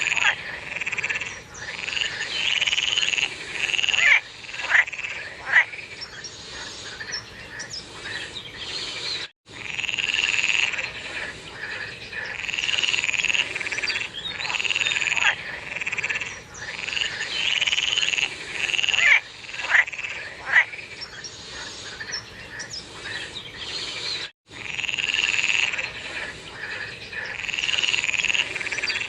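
A chorus of many frogs calling together in dense, swelling waves, with a few louder, sharper single croaks standing out now and then. The sound cuts out for an instant twice.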